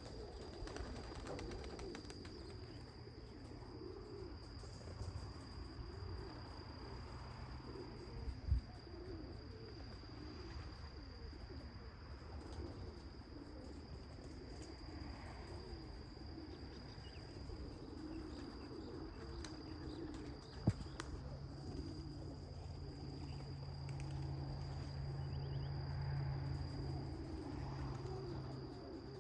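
Racing pigeons cooing, low wavering coos repeating over and over, with a steady high cricket trill behind them. Two brief sharp clicks, one about a third of the way in and one about two-thirds in.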